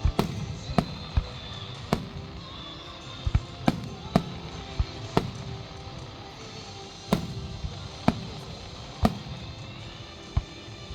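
Fireworks going off in a dozen or so sharp bangs at irregular intervals, over show music playing throughout.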